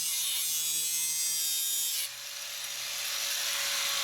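Power tool cutting a metal chimney pipe: a steady whine over hiss, whose tone shifts and dips about halfway through.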